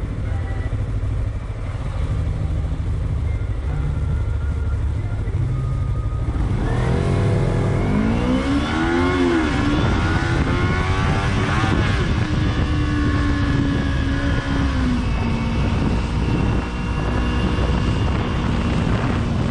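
Motorcycle engine running. About seven seconds in it revs up and back down, then holds a steady pitch while riding, dropping a little lower near the end.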